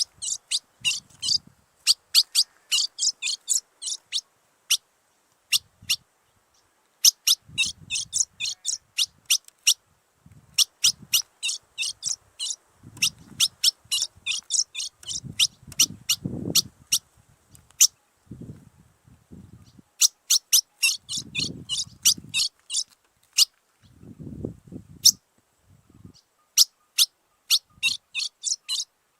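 A songbird singing bursts of rapid, sharp high-pitched notes, each burst several notes long, with short pauses between them. Low muffled thuds come in between now and then.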